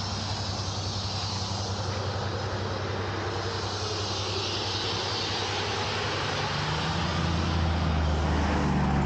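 Heavy wrecker's diesel engine running steadily under load with a broad hiss. It revs up and grows louder about seven seconds in.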